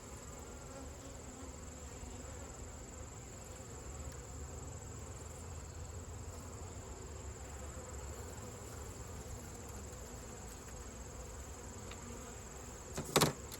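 Honeybees buzzing steadily around an opened hive, over a constant high-pitched insect whine. One sharp knock comes near the end.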